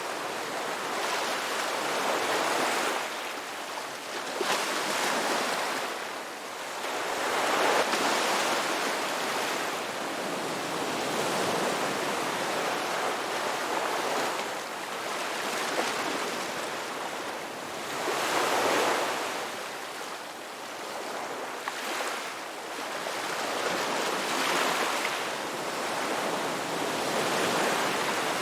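Ocean waves washing onto a beach: a steady rushing surf that swells and recedes every few seconds, with stronger surges about a third of the way in and again past halfway.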